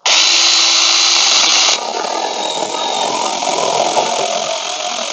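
Tomyvic 6-inch 21V cordless mini chainsaw starting suddenly, its electric motor and chain running loudest for nearly two seconds, then dropping to a lower, duller running sound that carries on as the chain cuts into a branch.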